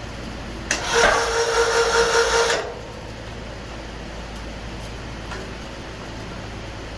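A small motor runs for about two seconds with a steady whine, starting and stopping abruptly, over a constant low background hum.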